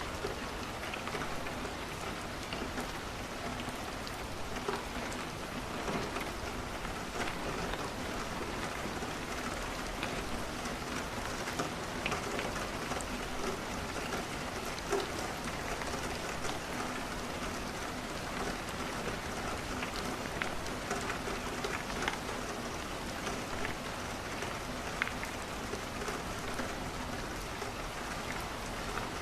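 Steady rain falling against a window, with many short, sharp ticks scattered throughout.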